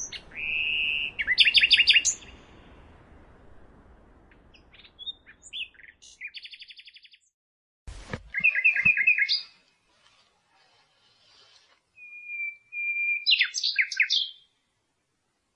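Common nightingale singing in separate phrases with pauses between. The phrases mix long held whistles with fast runs of repeated notes and a rapid trill. A faint background hiss cuts off about six seconds in.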